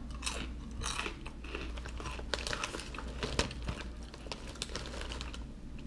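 Crunchy Cheetos being bitten and chewed with crisp crackling crunches. The foil-lined snack bag crinkles as it is picked up and handled.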